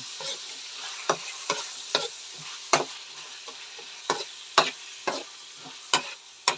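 Pork liver sautéing in a pan: a steady sizzle, with a utensil knocking and scraping against the pan about twice a second as it is stirred.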